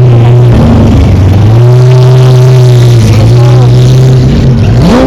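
Car engine revved and held at steady high revs in a few long pulls, with short breaks between them, then blipped up sharply near the end.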